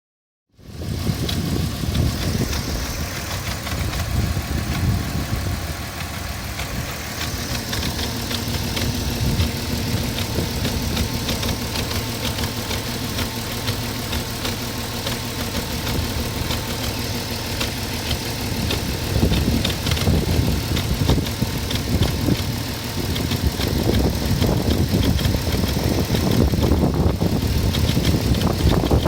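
2004 Porsche Cayenne 3.2 V6 engine, running on LPG, turning over steadily while cold, with a fast ticking over the engine sound: the cold-engine noise the owner is showing.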